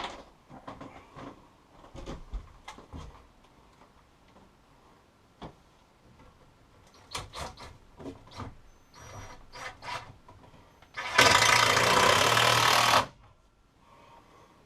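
Scattered small clicks and knocks of handling parts and tools, then a handheld power tool's motor runs loudly for about two seconds about eleven seconds in, stopping abruptly.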